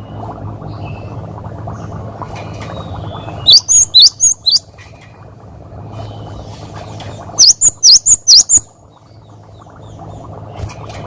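Cinereous tit (gelatik batu) singing its 'wucit wucit' song: two runs of five or six loud, quick, sweeping high notes, about four seconds apart, over a steady low background hum.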